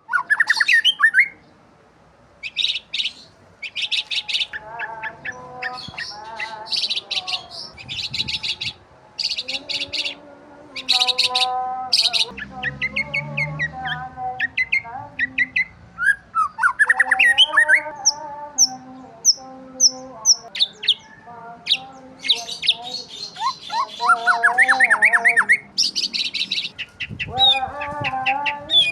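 Birds chirping and calling continuously: many short chirps and bursts of chatter overlap with warbling, gliding notes.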